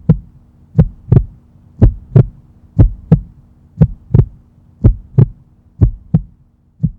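Heartbeat sound effect: paired deep thumps, about one pair a second, over a faint steady hum.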